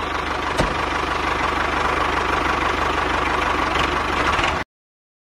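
Tractor engine idling steadily, with one click about half a second in; it cuts off suddenly about four and a half seconds in, leaving silence.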